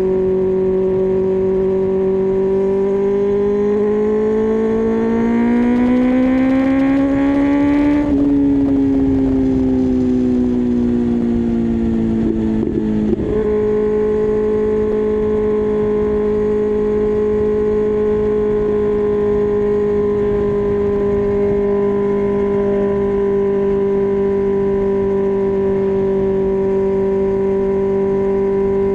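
2024 Kawasaki ZX-6R's inline-four engine running on the move at a steady speed, then rising in pitch as the throttle is opened. The pitch drops sharply about eight seconds in and winds down, a brief stutter follows a few seconds later, and then the engine settles back to a steady cruise.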